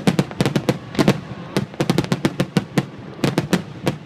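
Fireworks bursting overhead in a rapid, uneven volley of sharp bangs, about four to five a second in clusters with short gaps.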